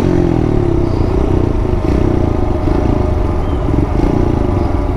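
Kawasaki KLX110 pit bike's small single-cylinder four-stroke engine running under way, the revs dropping in the first half second and then rising and falling unevenly.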